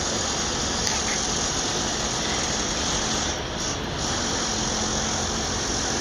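Freight train running through a rail yard: a steady, even noise of the train on the tracks, with a brief dip about three and a half seconds in.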